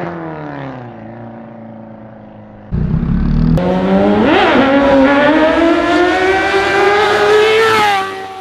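Superbike engines: one fades away with a falling pitch, then a sudden cut about three seconds in brings in a loud engine accelerating hard. Its pitch climbs steadily, with a brief rev spike partway through, and it falls away near the end.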